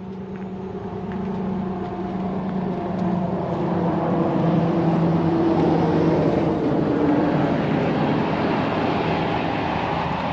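A passing vehicle's engine noise, swelling slowly over several seconds and then gradually fading.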